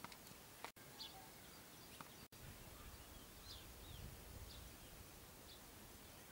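Faint, short, high bird chirps scattered over a quiet background hiss, with a low rumble in the middle and two abrupt momentary dropouts in the sound early on.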